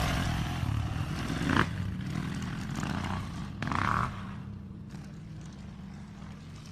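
A motorcycle engine running under a wide rushing noise, with a sharp knock about a second and a half in and a short louder burst near four seconds. After that the engine drops to a steadier, quieter note.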